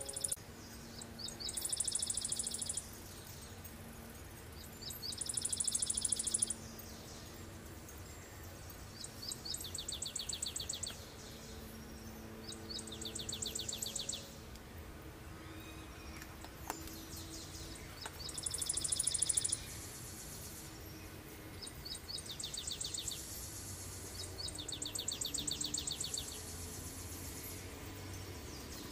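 A songbird singing a fast, high trill of rapidly repeated notes, each trill lasting about one and a half to two seconds and repeated over and over every three to four seconds.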